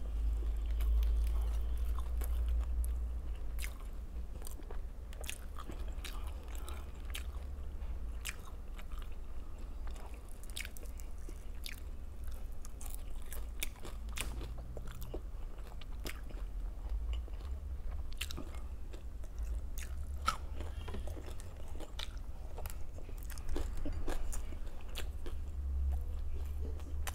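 A person chewing and biting food, with many scattered crunches and wet mouth clicks throughout, over a steady low hum.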